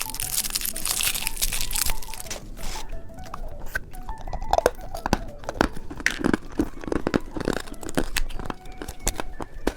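Plastic candy wrapper torn open and crinkled for about two seconds, followed by scattered crunches and clicks as the candy and its packaging are handled.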